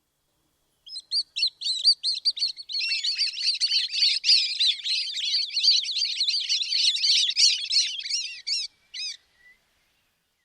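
Songbird song: a fast run of high chirps and trills that starts in short separate phrases about a second in, then runs on thick and unbroken, and ends about nine seconds in.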